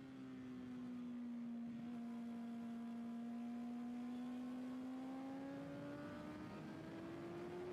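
Motorcycle engine on a track lap, its pitch sagging slightly and then climbing steadily as the bike accelerates.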